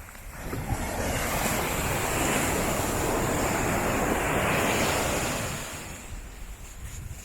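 Ocean surf: a wave breaks and washes up the sandy beach, swelling about a second in and fading away after about five seconds, with wind buffeting the microphone.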